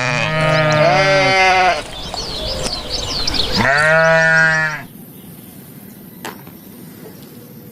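Sheep bleating twice: a long bleat that ends about two seconds in, then a second, shorter bleat about four seconds in.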